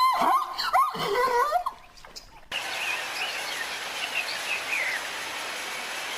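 Quick, repeated high-pitched animal cries that stop about two seconds in. Then comes an abrupt change to a steady outdoor hiss with faint bird chirps.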